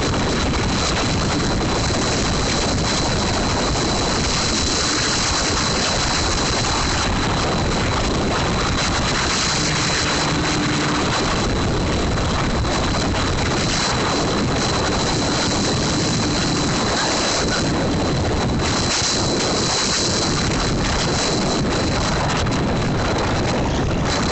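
Wind rushing over the microphone of a camera moving at speed, with motorcycle engine noise mixed in. A thin high whine runs steadily underneath.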